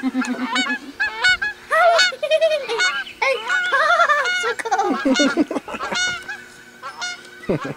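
A person's voice making rapid, repeated honking, warbling bird calls in imitation of a loon's laugh.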